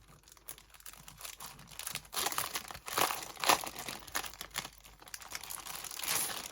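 Packaging of a 6x6 paper pad being torn and pulled open by hand: a run of irregular rustles and tears, loudest in the middle.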